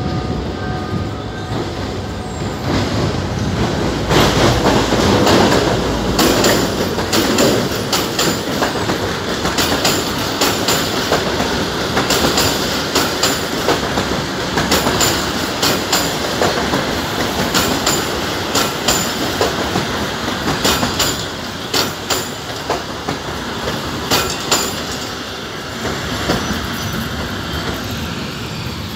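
Passenger train of the Alexandria–Abu Qir line running, heard from aboard: a steady rumble with rapid clicks and clatter of wheels over the rail joints. The clicks thin out and the noise drops a little near the end.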